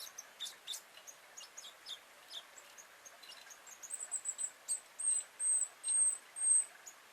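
Small garden birds chirping in short, sharp calls; from about four seconds in, a run of five high, thin drawn-out notes.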